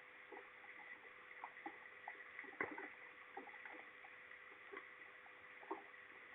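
Faint raindrops tapping irregularly close to a nest-camera microphone, with one sharper tap about two and a half seconds in, over a faint steady tone.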